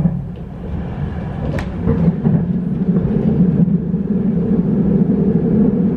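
Passenger train running, heard from inside a dining car: a steady low rumble and hum, with a brief click about a second and a half in.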